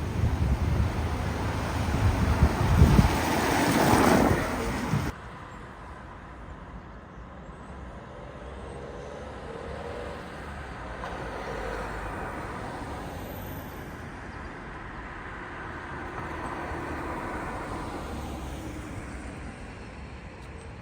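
Road traffic: a vehicle passes close by, loudest about three to four seconds in. The sound then drops suddenly to quieter street background with distant traffic.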